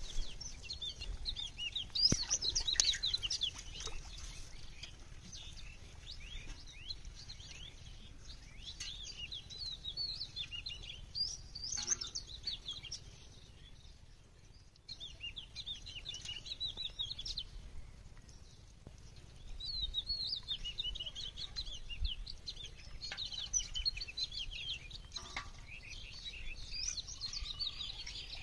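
Small birds chirping and twittering in rapid, high-pitched runs, coming in several spells, over a faint low rumble.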